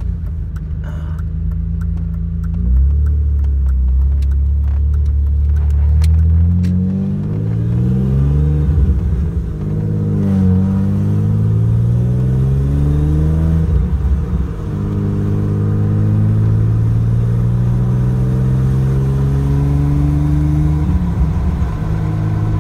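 BMW E36 325i's 2.5-litre straight-six engine heard from inside the cabin. It runs steadily for the first few seconds, then rises in pitch as the car accelerates through the gears, dropping back at each gear change, about ten and fourteen seconds in and again near the end. Sharp clicks come and go in the first few seconds.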